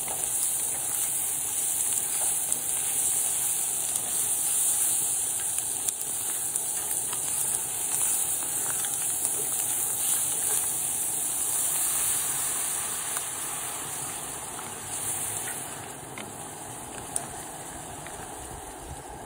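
Seafood and ravioli sizzling in oil in a hot cast iron skillet, with a few light knocks of a wooden spatula. The sizzle turns quieter for the last few seconds as beer is poured into the pan.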